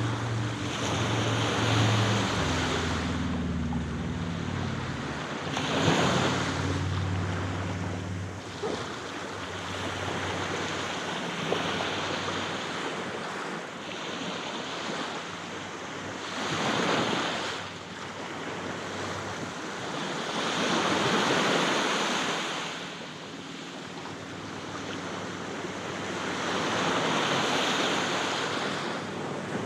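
Aegean Sea waves breaking and washing up the beach, swelling and ebbing in about five surges. A low engine hum fades out during the first several seconds.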